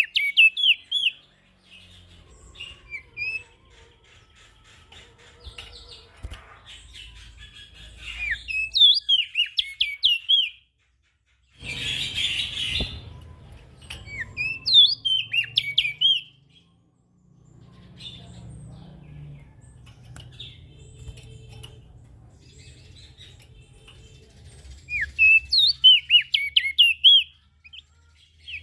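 Prenjak daun singing: loud phrases of rapid, sweeping chirps that come back every several seconds, with softer scattered calls between. About twelve seconds in there is a short harsh, rasping burst.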